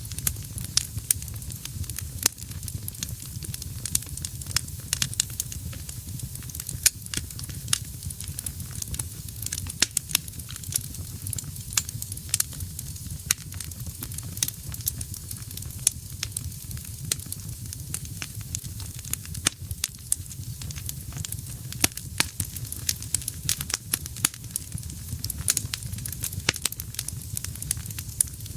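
Wood fire burning in a fireplace: many sharp irregular crackles and pops, several a second, over a steady low rumble and soft hiss of the flames.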